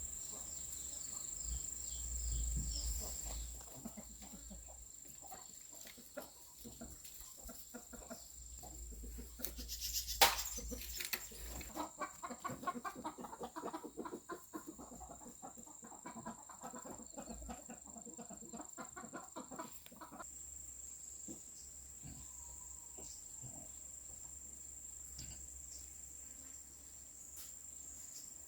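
Chickens clucking in short calls, over a steady high-pitched insect drone, with one sharp knock about ten seconds in.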